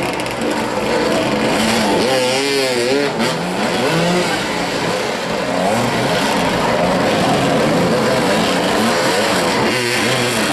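Several motoball motorcycles running at once, their engine notes overlapping and rising and falling as they rev up and back off during play.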